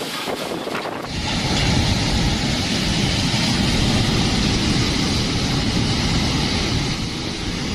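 Storm wind blasting across the microphone, a loud, rough roar that grows stronger about a second in.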